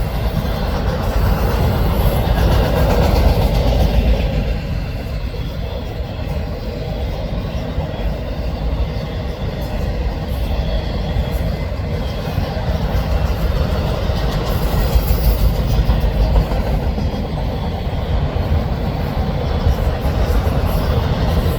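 Freight train of autorack cars rolling past, a loud, steady rumble of steel wheels on rail.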